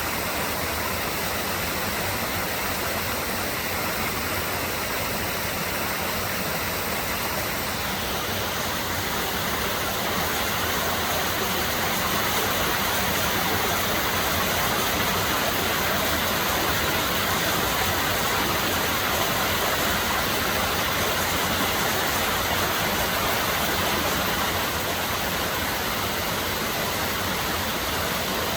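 Steady rushing of flowing water, its tone shifting abruptly about eight seconds in and growing slightly louder for a stretch after that.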